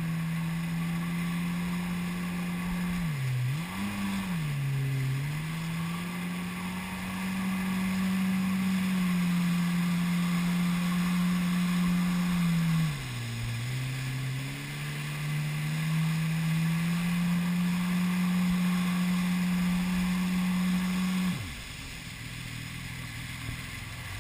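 Jet ski engine running at speed with a steady drone, its pitch dipping twice as the throttle is eased and reopened. Near the end the throttle is let off and the engine note drops away sharply.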